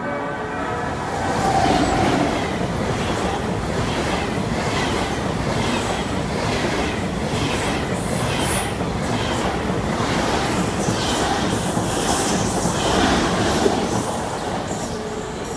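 Deutsche Bahn ICE high-speed train passing close by: a steady rushing of wheels on rail, swelling about two seconds in, with a regular clickety-clack of wheelsets over rail joints about twice a second.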